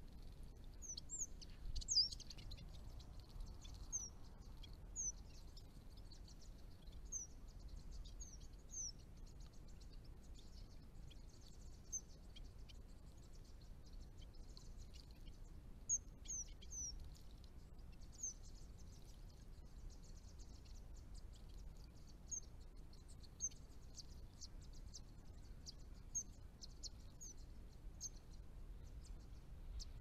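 Small birds giving short, thin, high chirps, each note sliding down in pitch, scattered singly and in quick pairs through the whole stretch over a faint high hiss; the loudest notes come about two seconds in.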